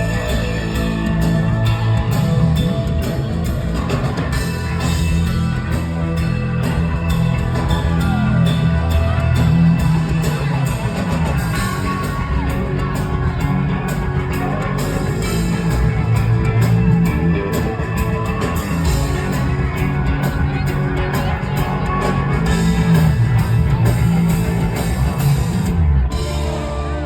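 Live rock band playing loud psychedelic rock, with guitar over a heavy bass line, heard from within the audience.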